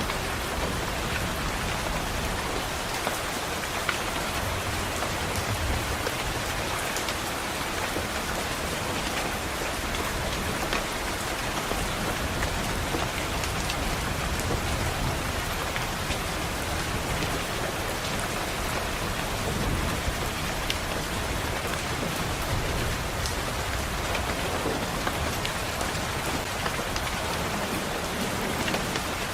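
Steady rain pattering on a window, with scattered small drop taps and low rumbles of distant thunder coming and going.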